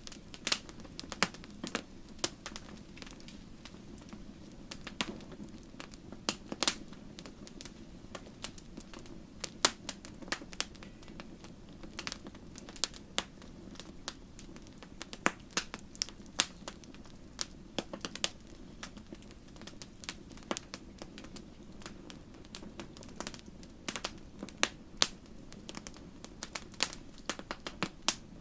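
Wood campfire burning and crackling: irregular sharp pops and snaps, several a second, over a steady low rumble of the flames.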